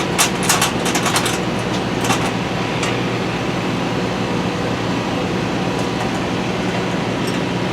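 Steady low machine hum, with a quick run of sharp light clicks in the first second and a half and a few more scattered later.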